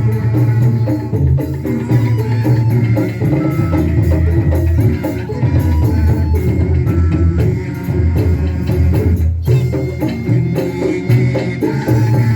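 Band music with a steady drum beat, rattling shaker-like percussion and a held melody over it.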